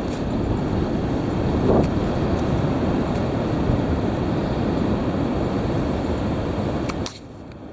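Heavy wind gusting and buffeting the microphone in a steady low rumble, which drops away sharply near the end.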